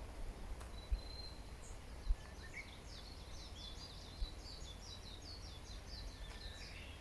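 A songbird singing a quick, jumbled run of high chirping notes lasting a few seconds, over a steady low rumble with a few brief low bumps.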